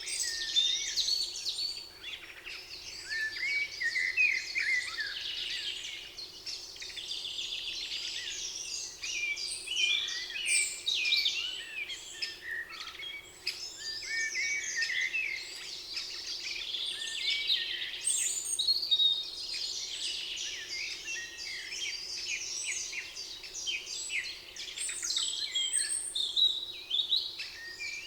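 Several songbirds singing and chirping at once, a dense chorus of quick, overlapping high calls and trills, with a faint steady hum underneath.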